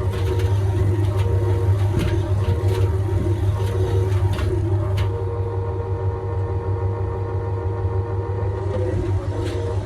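Hoover HNWL7146 washing machine running its Airing programme: a steady motor hum with a few constant tones above it as the drum turns. Light knocks and clicks come now and then, and the hiss above the hum drops away about halfway through.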